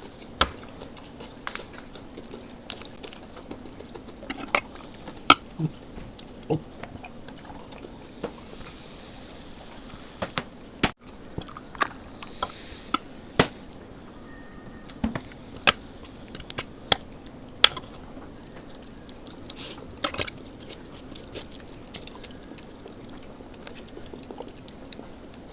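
Close-miked eating: wet chewing and lip-smacking with scattered short clicks and crunches, spicy noodles and fried chicken being eaten.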